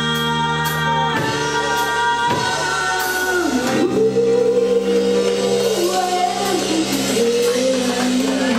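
Band playing a rock song with singing, with long held notes.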